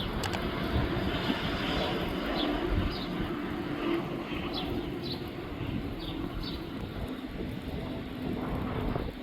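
A steady rumbling noise with a faint low hum running through it, and short high bird chirps repeating over it.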